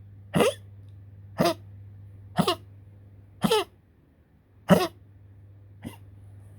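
Poodle coughing in a fit: six short, harsh coughs about a second apart, the last one weaker.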